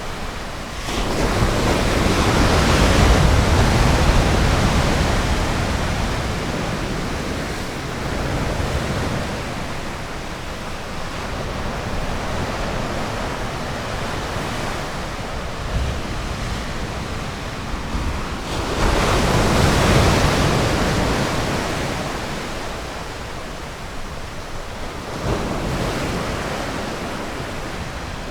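Ocean surf: waves break and wash up the shore, a large one swelling about a second in and another about 18 seconds in, each fading slowly, with smaller surges between.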